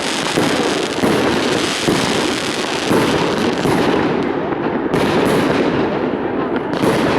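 Fireworks display: a rapid, continuous barrage of firework bangs and crackles, several a second, with no let-up.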